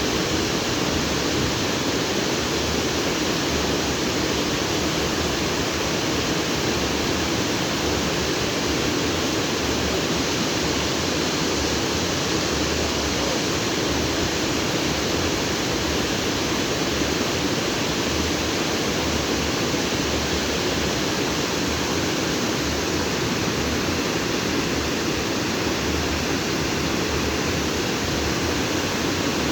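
Stream water flowing over and between rocks, a steady rushing with no change in level.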